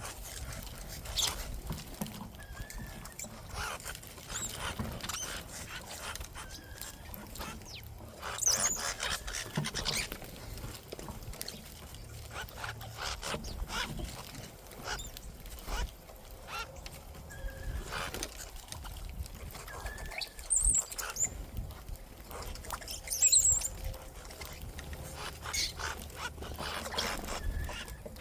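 Small backyard birds at a feeder: scattered short, high-pitched chirps and calls among many quick clicks and flutters of birds scrabbling and pecking at seed.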